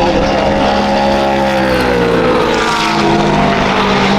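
Race car engine running on track, its pitch sinking slowly over about three seconds as the car goes by.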